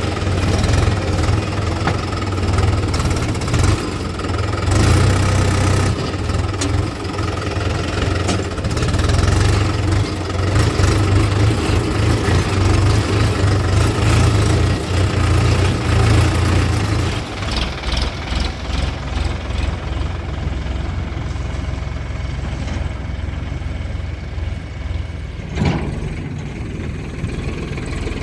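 Diesel engines of a JCB 3DX backhoe loader and tractors running while mud is loaded. A heavy low engine note eases off about two-thirds of the way through, and there is a single clank near the end.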